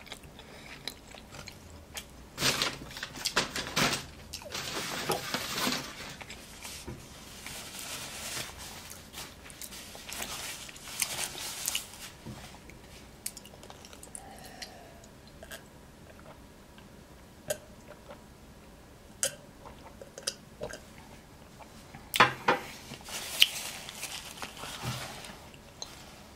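Close-miked chewing of a mouthful of burger and fries: wet mouth sounds with sharp clicks and crunches coming in clusters, loudest about a quarter of the way in and again near the end.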